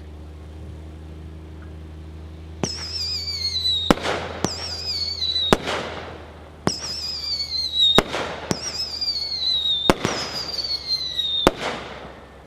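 Magnus 'Midnight Howling' consumer fireworks cake firing, starting about two and a half seconds in. It sends up whistling shots whose wavering whistles fall in pitch, about three of them, with sharp bangs among them.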